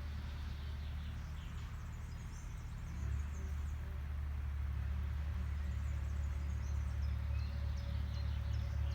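Low, steady engine rumble of an agricultural machine, growing louder about three seconds in, with a faint steady hum joining later. Small birds chirp in short high notes over it.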